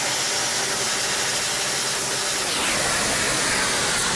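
Steady hiss of a self-serve car wash's high-pressure rinse wand spraying water.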